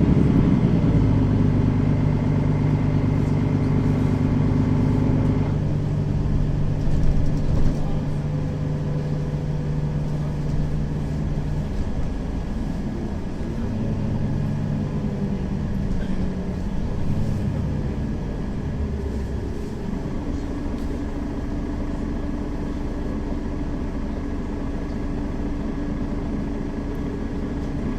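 Mercedes-Benz Citaro facelift city bus heard from inside while under way: the diesel engine hum steps to a new pitch several times as the bus changes gear, over steady road rumble. There are a couple of rattles or knocks about seven to eight seconds in.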